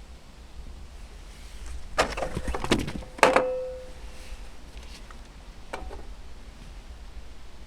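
A quick run of clicks and knocks from objects being handled, then a sharper knock that rings briefly with a single tone, and one lighter click later on.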